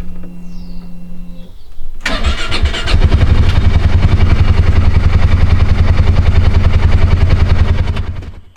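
A vehicle engine turns over and starts about two seconds in, then runs loud and steady at idle until it cuts off abruptly near the end. A steady hum comes before it.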